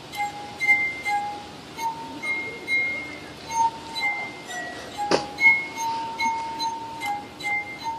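Tuned glasses ringing out a melody, one clear note after another, each starting with a light tap. A sharp clink about five seconds in.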